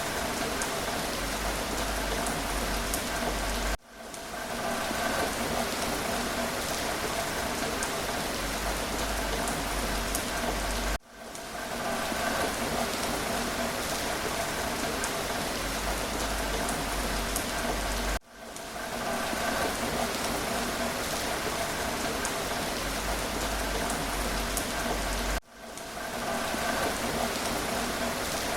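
Steady rain, a dense even hiss of falling drops. It cuts out abruptly and swells back in within about a second, four times at even intervals of roughly seven seconds.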